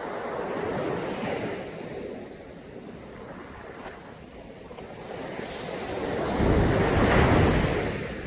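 Sea waves washing onto a beach, with wind on the microphone. The surf rises a little about a second in, then a bigger wave surges in near the end with a deep rumble, the loudest moment.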